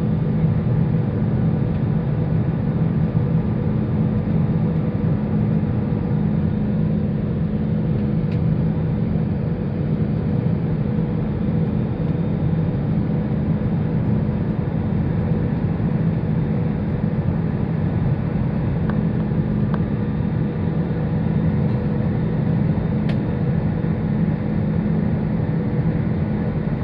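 Steady low drone inside the cabin of an Airbus A320-214 on final approach: its CFM56 engines and the airflow over the airframe, with a faint steady hum above the rumble.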